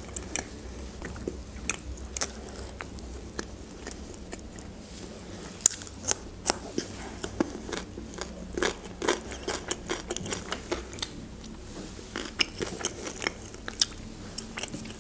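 A person chewing pieces of grilled chicken breast, with many short, irregular wet clicks and smacks of the mouth.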